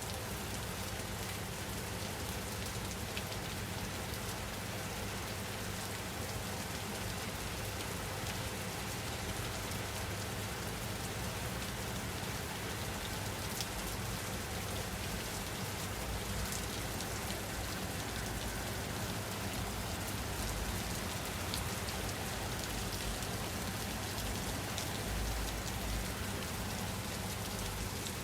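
Steady rain falling on a surface, an even hiss with the odd sharper drop tick.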